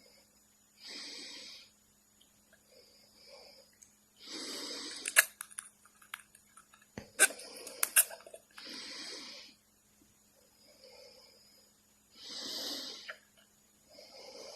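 Rhythmic snore-like breathing: a louder, hissing breath about every three and a half seconds alternates with a softer one, and a few sharp clicks fall in the middle.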